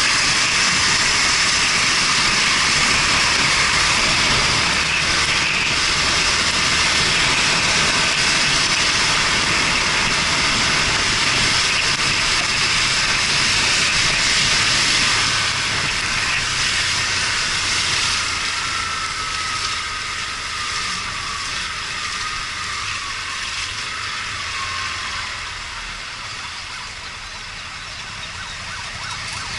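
Rush of wind and wet road from a Yamaha Fazer 250 motorcycle riding in the rain: a loud, steady hiss that eases off from about halfway as the bike slows. A faint falling whine runs through the second half.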